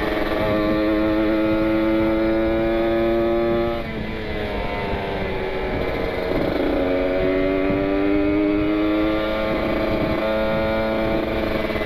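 Kawasaki Ninja 150 RR two-stroke single-cylinder engine at full throttle, revs held high, then dropping sharply about four seconds in before climbing again from about six and a half seconds and holding. Wind rush runs underneath.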